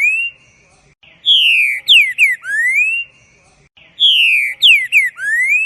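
A songbird singing a loud whistled phrase, twice in full: a long falling whistle, two quick downslurred notes, then a slower rising slur. The phrase repeats about every two and a half seconds with short pauses between.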